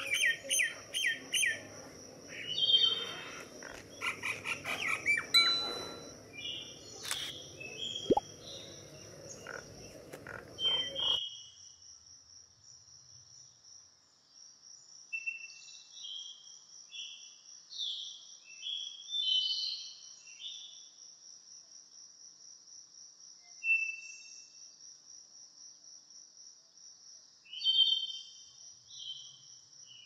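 Birds calling in short, varied whistled and chattering notes over a steady, pulsing high insect trill. A low background noise with clicks runs under them at first and cuts off abruptly about eleven seconds in.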